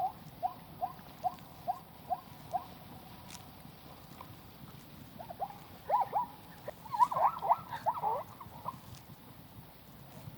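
An animal's short repeated calls: a run of about seven evenly spaced calls in the first two and a half seconds, then a louder flurry of downward-sliding calls in the second half.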